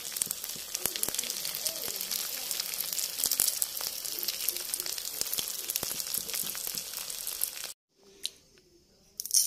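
An egg sizzling and crackling in hot oil on top of spicy chicken keema in a pan, with a steady hiss and many sharp pops. It cuts off suddenly about eight seconds in.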